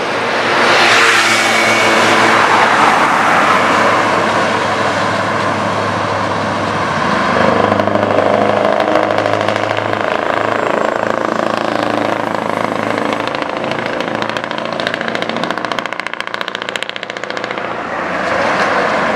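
Scania R620's V8 diesel running loud through a straight-pipe exhaust. The sound swells about a second in and again around eight seconds, with a short dip shortly before the end.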